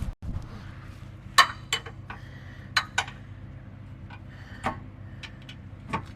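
Sharp metallic clinks and ticks of hand tools, a ratchet and socket, working on the wheel hub's 17 mm bolts: about six separate strikes spread a second or so apart, the loudest about a second and a half in.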